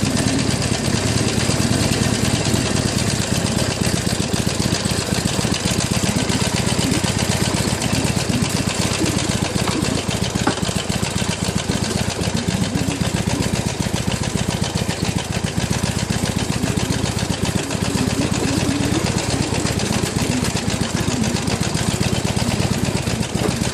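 Harley-Davidson Iron 883's air-cooled V-twin running steadily with its rapid, uneven firing pulses as the motorcycle is ridden along a rough jungle track, heard from the pillion seat.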